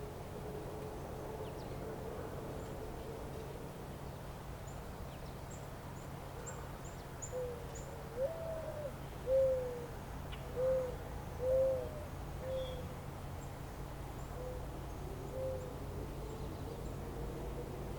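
A bird gives a series of about seven short hooting calls over several seconds, the loudest about nine seconds in, over a steady low rumble. Faint high chirps of small birds come and go.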